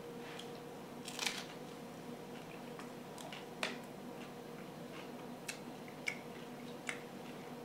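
A crunchy bite into broiled ciabatta artichoke bread about a second in, then a few short, faint crunches and clicks as it is chewed. A faint steady hum lies underneath.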